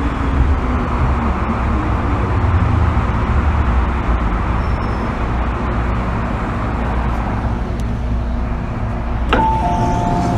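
MTR M-Train electric multiple unit heard from inside the car, running with a steady rolling rumble, its motor whine falling in pitch just at the start. Near the end a click and a two-note descending chime sound, the on-board chime ahead of a station announcement.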